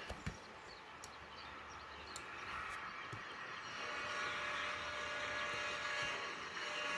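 CSX train passing, a steady rumble and rail noise that grows louder from about four seconds in, with a few sharp clicks.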